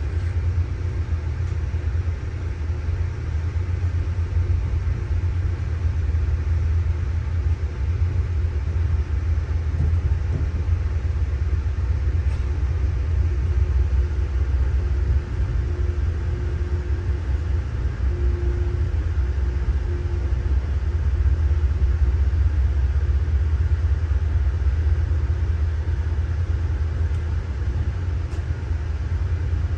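Steady low rumble of an Amtrak train running, heard inside an Amfleet I coach.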